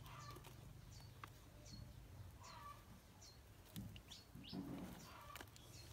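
Faint bird chirps: short, high notes sliding downward, repeated roughly once a second, over a low steady hum with a few light clicks.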